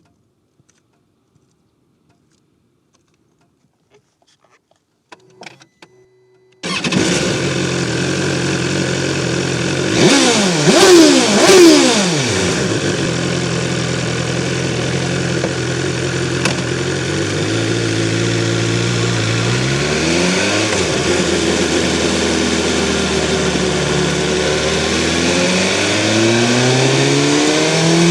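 2024 BMW S1000XR's inline-four engine starting: a few faint clicks and a short hum, then the engine catches about six and a half seconds in and idles. It is revved in three quick blips around ten to twelve seconds in, settles back to idle, and engine speed climbs again near the end.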